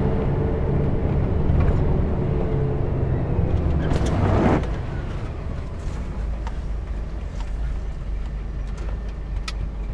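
Scania R420 truck's diesel engine running with a steady low rumble. Around four seconds in there is a short burst of compressed-air hiss from the truck's air system, after which the engine runs more quietly.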